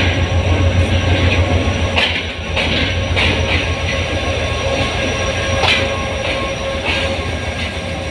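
A Pakistan Railways diesel passenger train pulls slowly into the platform. The locomotive's low engine rumble is loudest in the first couple of seconds, then fades as the coaches roll by with irregular clacks of wheels over rail joints and a thin, steady squeal.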